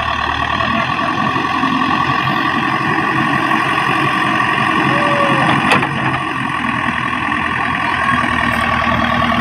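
A heavy vehicle's engine running steadily, with a single sharp click a little over halfway through.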